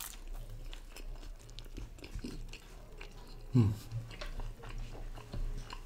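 Close-up chewing and biting of a chicken spring roll, with small wet clicks and crackles of the mouth. A brief low vocal sound comes from the eater about three and a half seconds in.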